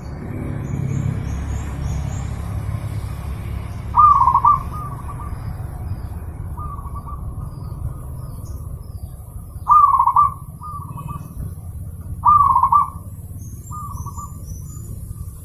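Zebra dove (perkutut) cooing: three loud phrases about 4, 10 and 12 seconds in, each trailed by softer coo notes. Faint high chirps of small birds sound near the start and near the end, over a steady low rumble.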